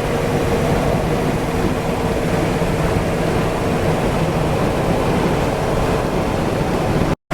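Steady drone of a 1971 Chevy truck's big-block V8 with road and wind noise, heard inside the cab while cruising at highway speed.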